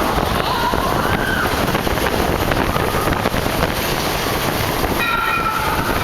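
Mine-train roller coaster running along its track: a loud, steady rumble of the cars and wheels, with a brief high-pitched tone about five seconds in.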